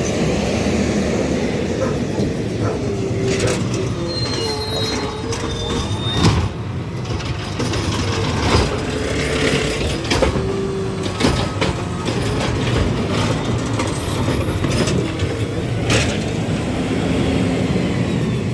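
Garbage truck at work: a steady heavy diesel rumble with a wavering whine over it and a few sharp metal clanks.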